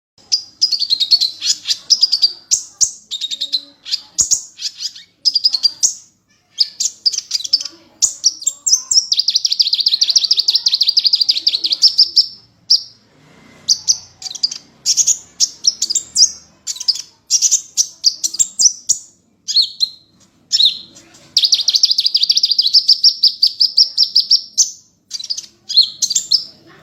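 A small bird singing loud, high-pitched chattering phrases of quick chirps, broken by short pauses, with two long, even trills lasting about three seconds each.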